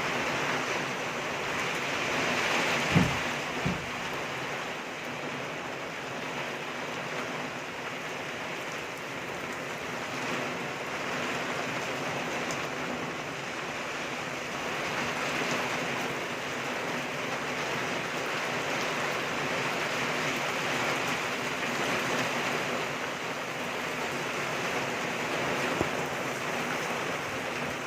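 Steady rain falling, an even hiss, with two short low thumps about three seconds in.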